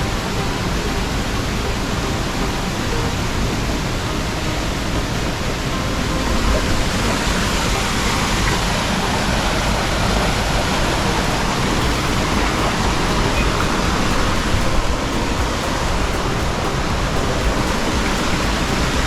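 Waterfall rushing in a steady, loud roar of falling water, without a break.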